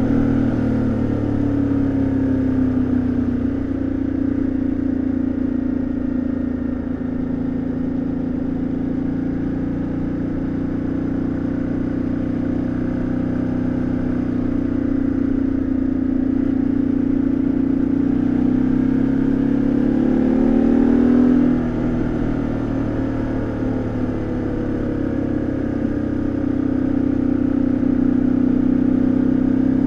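2013 Ducati Multistrada 1200S's L-twin engine and exhaust under way, holding a fairly steady engine speed with small rises and falls. About two-thirds of the way through, the revs climb and then drop sharply, building again near the end.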